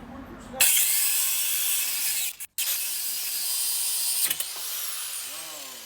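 Angle grinder with a cutoff wheel grinding through metal, a loud hissing grind with a brief break partway. About four seconds in the wheel bucks in the cut with a sharp clack, and the grinder winds down with a falling whine.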